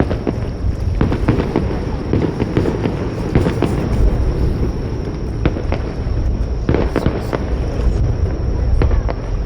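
Aerial fireworks going off: dense rapid crackling over deep, rolling booms, with the low rumble swelling about halfway through and again near the end.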